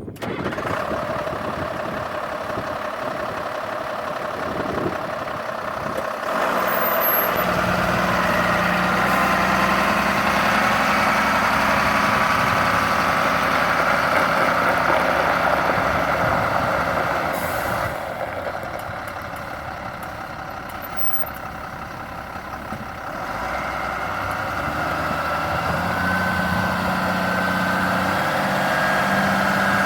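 The M35A3 cargo truck's Caterpillar 3116 turbo-diesel running. It gets louder about six seconds in, eases off for a few seconds around eighteen seconds, then picks up again.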